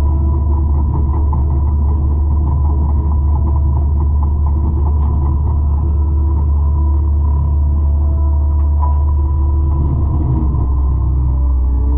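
200-horsepower forestry mulcher running: a loud, steady low drone with several steady machine tones above it. The pitch shifts near the end.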